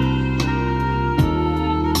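Instrumental music played as a sound test through an upgraded car audio system with Blaupunkt 6.5-inch coaxial speakers and an 8-inch active subwoofer: held notes over a strong bass line, the chord changing a little past a second in.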